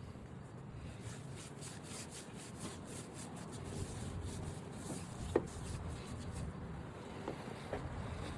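Scrubbing with a brush: a run of quick rubbing strokes, then a single sharp click about five seconds in.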